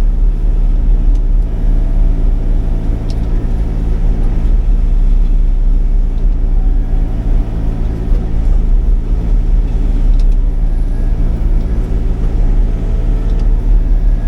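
Sany 35 mini excavator's diesel engine running steadily under load, a constant low hum with no change in speed.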